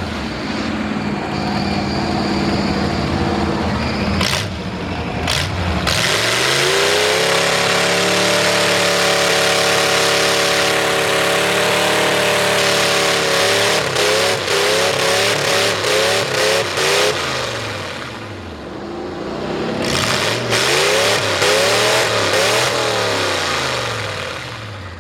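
V8 Ford mud truck with open upright headers revving hard in the mud: the engine climbs and holds at high revs for several seconds, then surges up and down rapidly with quick throttle stabs, drops off, and climbs again before easing off near the end.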